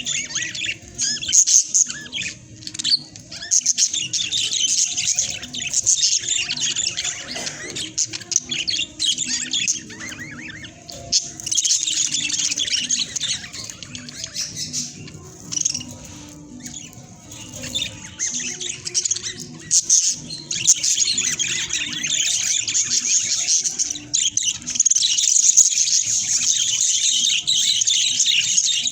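Budgerigars chattering, chirping and squawking continuously, with a quieter stretch around the middle.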